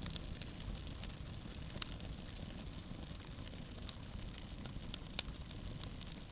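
Wood bonfire burning with a low steady rumble and scattered crackles, a few sharp pops standing out about two seconds in and again near five seconds.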